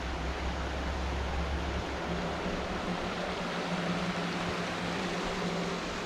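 Creek water flowing, a steady rushing noise, with a low steady hum underneath.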